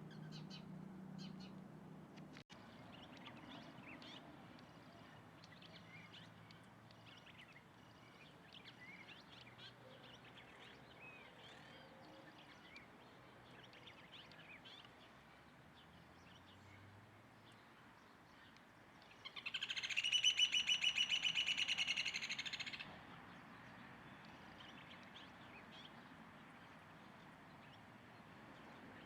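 Wild birds chirping and calling, with one loud, fast trill lasting about three and a half seconds, about two-thirds of the way through.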